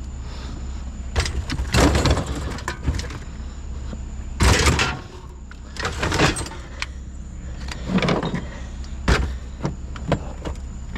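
Scrap metal pieces being handled and dropped, clattering and scraping in irregular bursts a second or two apart, over a steady low hum.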